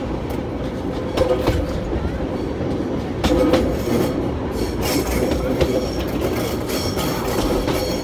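Railway passenger carriage running along the track: a steady rumble of wheels on rails with irregular clicks and knocks.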